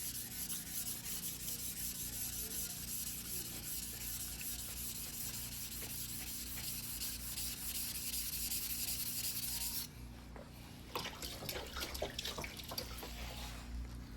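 A single-bevel white-steel fugubiki sashimi knife ground by hand on a wet whetstone: steady back-and-forth scraping strokes. These stop about ten seconds in, and a few shorter, uneven scrapes follow until near the end.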